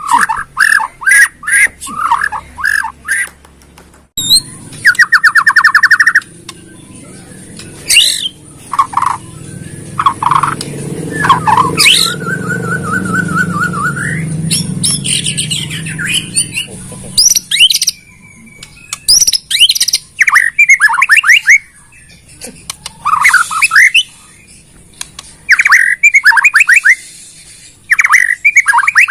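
White-rumped shama (murai batu) singing a varied song of short whistled notes, fast trills and harsh chattering phrases, one after another with brief gaps. A low rumble runs underneath through the middle.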